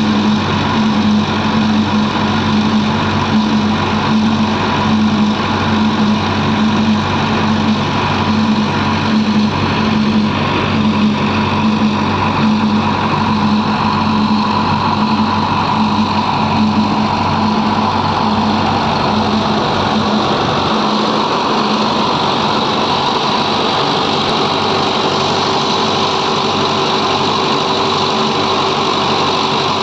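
Diesel engine of earthmoving machinery at a soil-loading job running steadily. About 21 seconds in, the deepest part of the hum drops away and a new steady tone comes in a little later, as the engine's speed or load changes.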